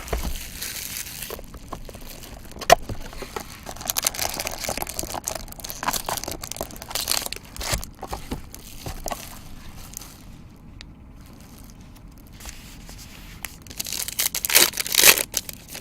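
Crinkling and tearing of plastic packaging as a sealed box of trading cards is opened, with irregular rustles and sharp clicks and a louder flurry of crinkling near the end.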